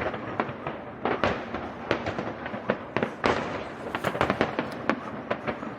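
Fireworks going off in a rapid, irregular series of sharp bangs and crackles, densest about four seconds in.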